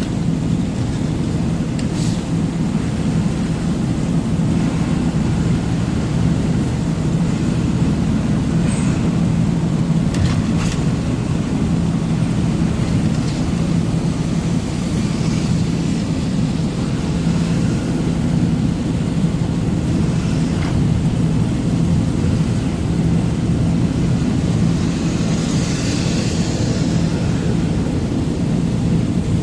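Truck engine running steadily as the truck drives: a constant low drone with a steady hum, plus a few faint clicks.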